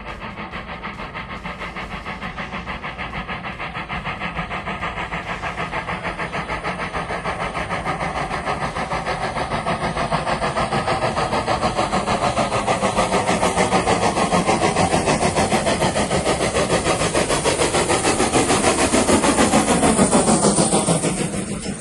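Historic train running toward and past, a rhythmic pulsing locomotive sound building steadily louder, then dropping in pitch and falling away sharply near the end as it passes.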